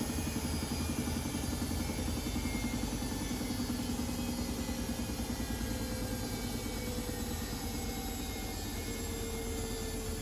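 Privileg Sensation 952 S top-loader washing machine running, a steady motor hum and whine from the turning drum. The whine falls slightly in pitch in the last few seconds.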